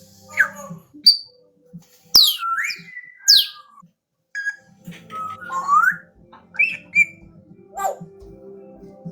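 African grey parrot whistling: a string of short gliding whistles, some sweeping steeply down and others rising, broken by a few sharp clicks.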